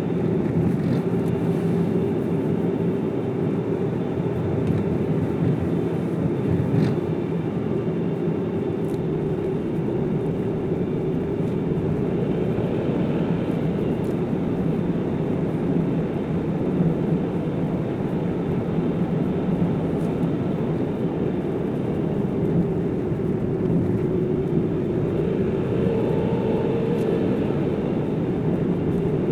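A car driving at a steady pace: even road and engine noise with no change in speed or load.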